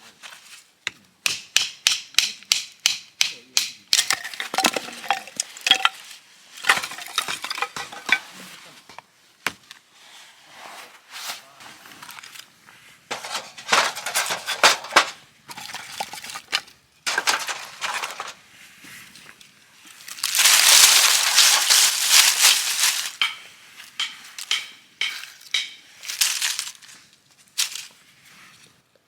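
Food and cookware being handled during camp cooking: a quick run of sharp clicks, then irregular crunching and scraping, with a longer, louder rustling stretch about twenty seconds in.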